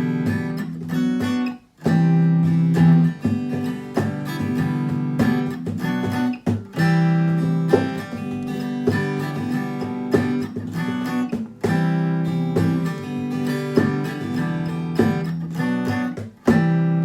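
Acoustic guitar strumming chords in an instrumental break, stopping briefly twice: about two seconds in and just before the end.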